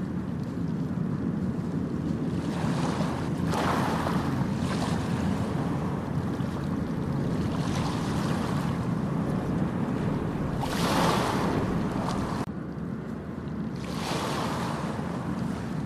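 Ocean surf on a beach: a steady low rumble of waves, with the hiss of a breaking wave washing in three times, at about four, eleven and fifteen seconds.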